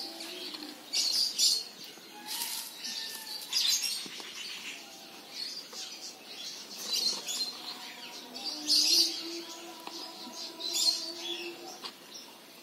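Budgerigars chirping and chattering, in short repeated bursts of high chirps over a few lower warbling notes.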